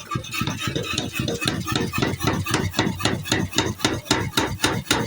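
Mechanical power hammer pounding a piece of a plough tool in a fast, even rhythm of about six sharp metal blows a second.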